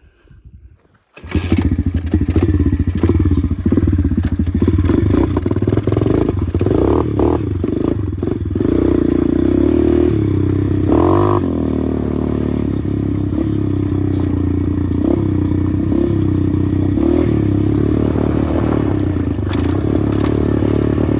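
125 cc pit bike engine running under way, revving up and down. It comes in abruptly about a second in.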